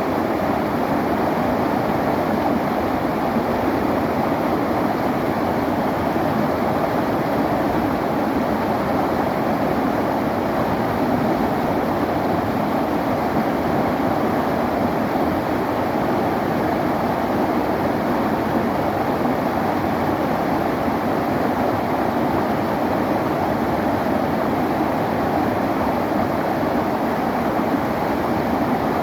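A river flowing: a steady, even rush of water that does not change.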